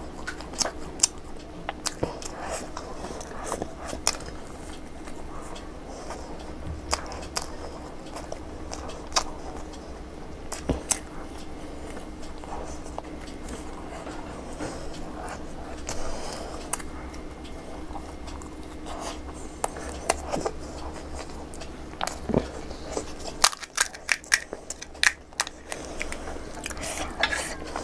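Close-miked chewing of a fried sandwich pakoda, with wet mouth clicks and smacks at irregular intervals. Near the end comes a quick run of sharp crackles as a crisp panipuri shell is cracked open and dipped in tamarind water.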